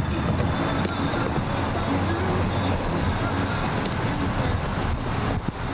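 Steady vehicle and road traffic noise, with faint music mixed in; it drops off a little just before the end, where a few sharp clicks begin.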